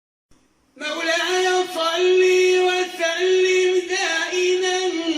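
Islamic devotional supplication chant (ibtihal): a voice singing long held notes with ornamented turns, starting just under a second in.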